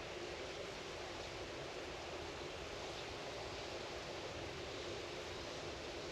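Steady, even outdoor ambient rushing noise with no distinct events.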